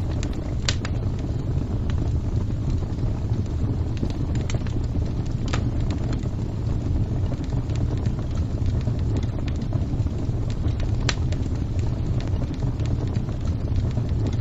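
Fire crackling: a steady low rumble with scattered sharp pops, the loudest about a second in, near the middle and about eleven seconds in.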